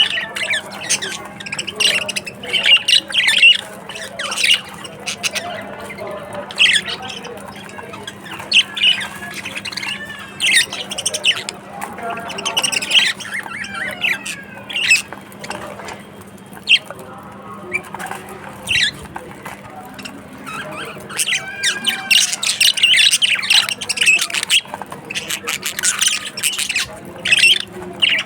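A group of budgerigars chattering and squawking, with many short, warbling calls overlapping throughout. A steady low hum runs underneath.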